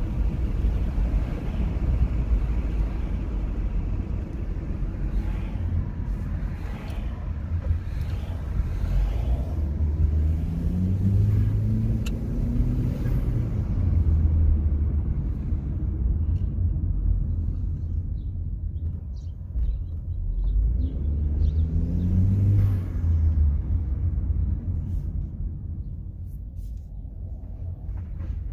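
2020 Chevrolet Equinox's 1.5-liter turbocharged four-cylinder engine running under way, with a steady low rumble of engine and road. It breathes through a modified stock airbox with a drop-in K&N filter. The revs climb twice, about ten seconds in and again just past twenty seconds.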